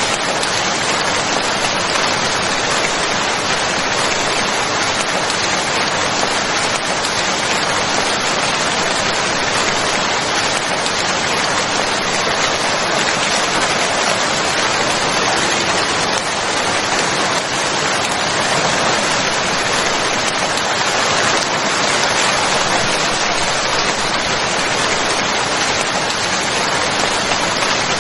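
Steady rain falling: an even, continuous hiss of rainfall with no separate knocks or changes.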